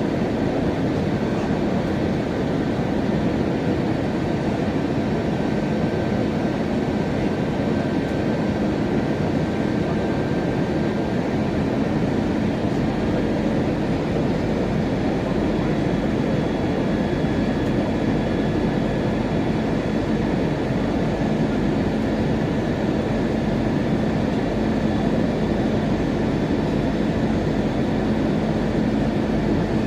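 Steady cabin drone of an Airbus A321-200 in flight: the engines and airflow make an even roar, with a faint low hum and a thin higher tone running through it.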